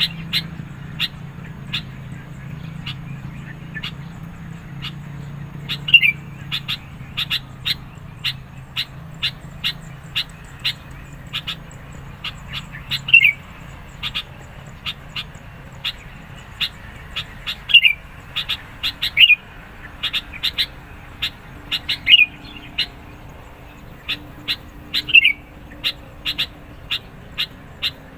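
Sooty-headed bulbul calling insistently: rapid, sharp chips, with a louder note sliding downward every few seconds. A faint low hum sits under the first half.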